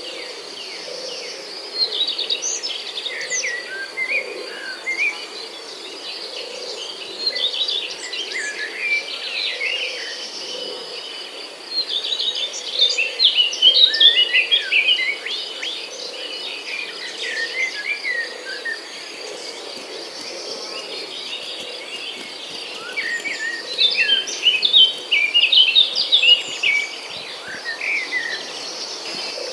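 Songbirds chirping and warbling over a steady high insect trill. The birdsong comes in busier flurries in the middle and near the end.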